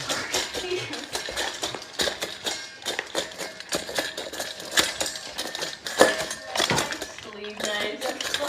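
Rapid, irregular clattering and clinking of hard objects knocking together, several sharp knocks a second.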